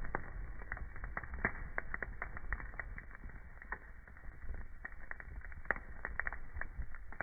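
Wood fire burning in a fireplace, crackling with frequent irregular sharp pops and snaps over a low steady rumble. It sounds somewhat muffled, with no high treble.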